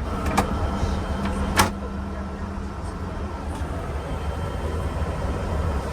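Steady low rumble of airliner cabin noise inside a Boeing 787-8, with two sharp clicks, one just after the start and another about a second and a half in.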